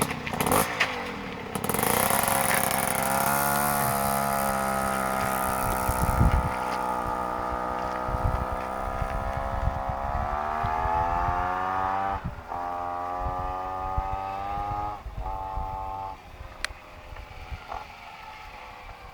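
Two-stroke Piaggio moped engine with a 75 cc Pinasco cylinder kit and Polini SP exhaust pulling hard at full throttle on a test run. Its high, buzzing pitch climbs slowly as the bike gathers speed, dips briefly twice, then fades as the moped rides away.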